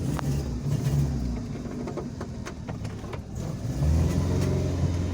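Car engine pulling slowly in low gear over a rough, rutted dirt road, with a few sharp knocks as the car rides over the bumps. The engine gets louder about four seconds in as it takes more load.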